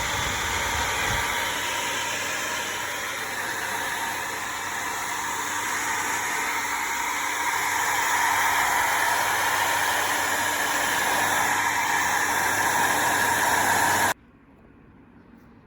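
Hair dryer blowing steadily, a motor hum under the rush of air, switched off abruptly about fourteen seconds in.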